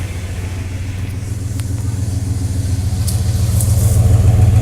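Exhaust of a 1998 Dodge Ram 1500's V8 idling steadily, heard at the tailpipe and growing louder toward the end; the exhaust sounds pretty loud.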